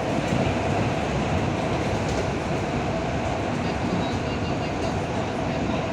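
Electric commuter train running at speed, heard from aboard: a steady rolling noise of wheels on track with a constant mid-pitched hum.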